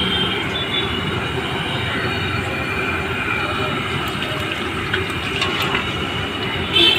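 A train passing, a steady unbroken noise with a faint high squeal near the start, over the sizzle of puris deep-frying in a kadhai of hot oil.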